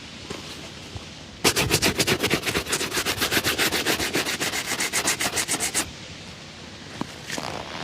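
A leather shoe being brushed hard and fast with a shoe-shine brush, in quick even back-and-forth strokes, about nine a second. The brushing starts about a second and a half in and stops near the end, leaving softer rubbing and a few light taps.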